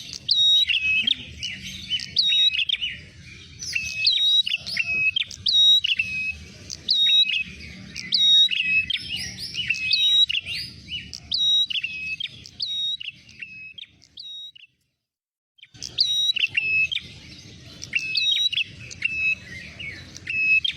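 Prenjak merah, a small cisticolid warbler, calling over and over in quick repeated chirps, each a sharp high note followed by lower notes, used as a lure call for trapping. The calls cut out for about a second two-thirds of the way through, then resume.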